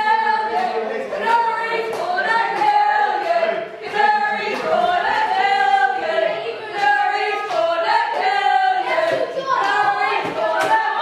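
Wrestling crowd singing a chant together in unison, many voices holding pitched notes in a repeating pattern.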